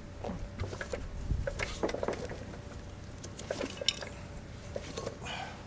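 Irregular clinks and knocks of metal tools and parts being handled, with one sharper click near the middle.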